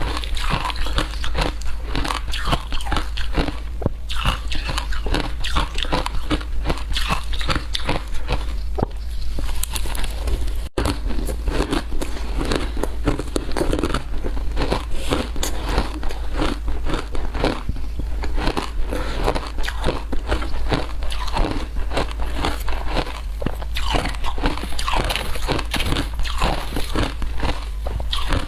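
Frozen matcha ice being bitten and chewed close to the microphone: a dense, irregular run of sharp crunching crackles, over a steady low hum. There is a brief break about ten seconds in.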